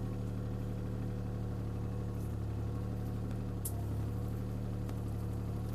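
CAT 303C CR mini excavator's diesel engine running steadily at a constant speed, with one brief sharp click a little past halfway.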